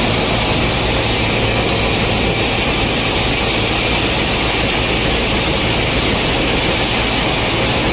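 Combine harvester running steadily while harvesting corn: a constant engine drone with a low hum and machinery hiss, even in level throughout.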